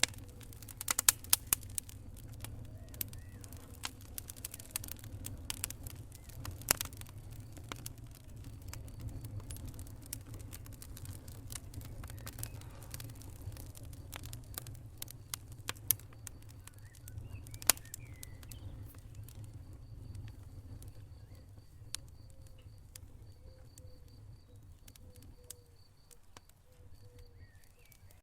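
Wood fire burning in a fireplace: irregular sharp crackles and pops over a steady low rumble of the flames, with a cluster of pops in the first couple of seconds and one loud pop about eighteen seconds in.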